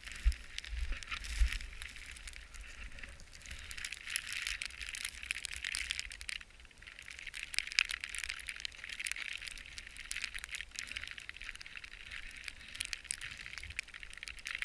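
Skis or a snowboard sliding over snow: a continuous crackly hiss of edges scraping the snow surface, with a brief easing about six seconds in. Low buffeting thumps, typical of wind on the microphone, come in the first two seconds.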